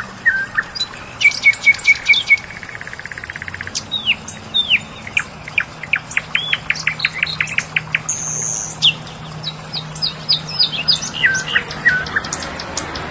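Songbirds singing in a spring chorus: varied whistled phrases and chirps, with a fast trill about two seconds in and a series of quick downward-sweeping notes in the middle.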